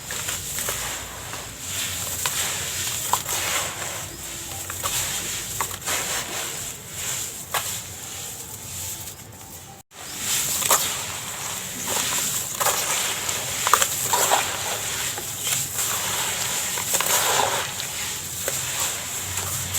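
Dried yellow sand-cement shapes being crumbled and crushed: a steady crackle of breaking pieces and trickling grit with many small sharp crunches, cut off briefly about ten seconds in.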